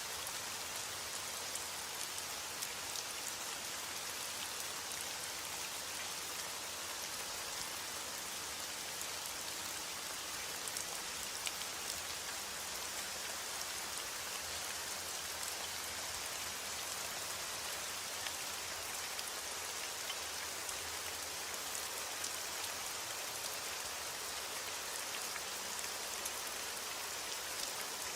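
Steady heavy rain, with the hiss of the downpour and many fine drop ticks on a surface.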